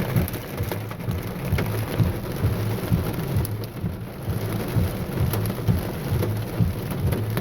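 Heavy thunderstorm rain pelting the vehicle, a dense steady patter broken by many sharp individual hits, with a low uneven rumble underneath.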